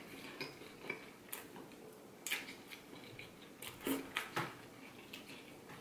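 Close-miked chewing of a mouthful of pancake: short, irregular mouth clicks, quiet.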